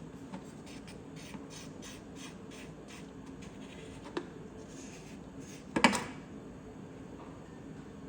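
Faint, repeated short strokes of a brush dabbing JB Weld epoxy onto a metal propeller shaft, with a small click a little after four seconds and a louder knock near six seconds.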